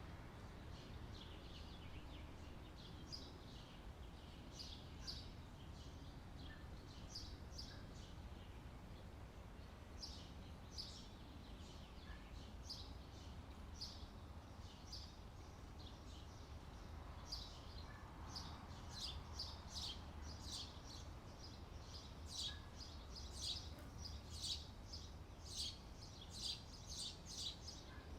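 Small birds chirping in short, repeated high calls, coming thicker and faster over the last third, over a faint, steady low outdoor background noise.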